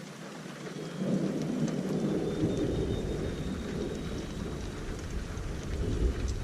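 Steady rain falling, with scattered drop ticks. About a second in, a low roll of thunder swells up and rumbles on.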